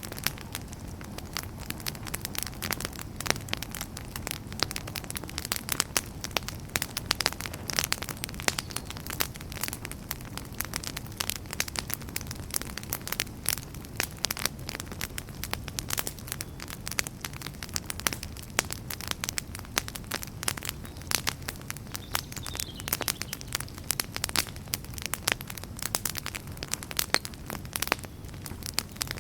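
Wood campfire burning, with dense irregular crackles and pops over a steady low rumble of the flames.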